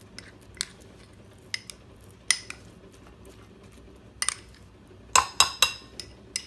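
Kitchen utensils clinking and knocking against a bowl while ground beef is transferred into a food chopper: scattered sharp knocks about once a second, with a louder quick run of several about five seconds in.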